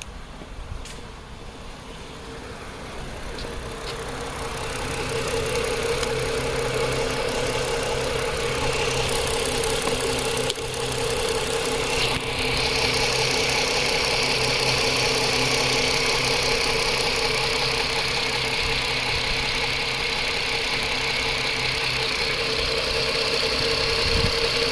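Chrysler 2.7-litre V6 idling with cylinder 2 misfiring intermittently. It grows louder over the first few seconds, and a higher hiss joins about halfway.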